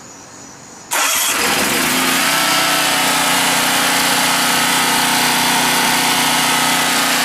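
Generac 4000EXL portable generator's engine starting about a second in, then running at a steady speed.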